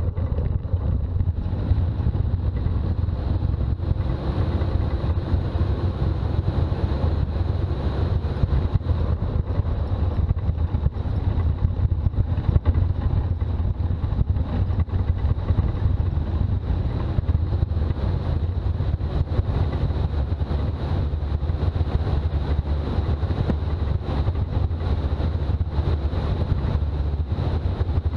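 Toyota BJ40 Land Cruiser on the move, its four-cylinder diesel engine and road noise making a steady low rumble.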